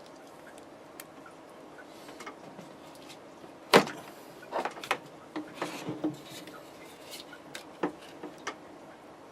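Hands handling wiring and small connectors: scattered clicks and rubbing, with one sharp click about four seconds in and a run of smaller clicks after it.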